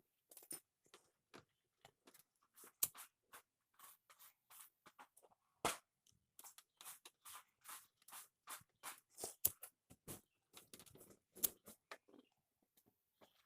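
Irregular clicks and light knocks, a few a second, of hand tools and metal parts being handled while fitting a washing machine motor, with sharper knocks about three, six, nine and a half, and eleven and a half seconds in.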